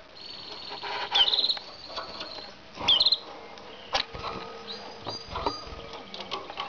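Canaries, a frill canary and a common canary, singing: high whistled notes and fast trills of rapidly repeated notes, the loudest trill bursts about a second in and again near three seconds, with a few sharp clicks between.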